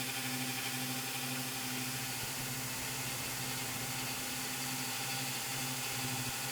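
A power tool's electric motor running steadily: a constant hum with an even hiss over it.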